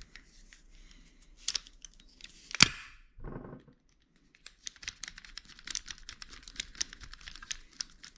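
Small screw being turned back into a shower valve cartridge during a rebuild: a sharp click about two and a half seconds in, then a run of rapid light clicks and scrapes of metal and plastic for about three and a half seconds.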